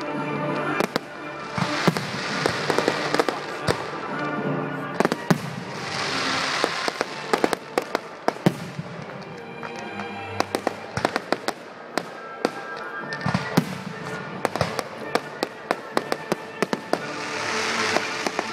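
Fireworks display: a rapid, uneven series of shell bursts and crackles, swelling into dense crackling barrages several times.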